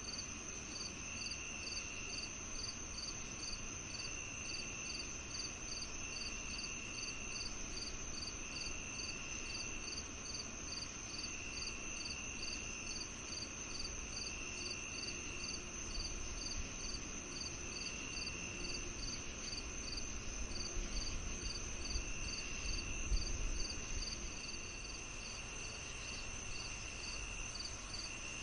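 Evening chorus of crickets and other insects: one high steady trill, one chirping evenly about one and a half times a second, and another trilling in bursts of about a second with short pauses. A low rumble swells about two-thirds of the way through.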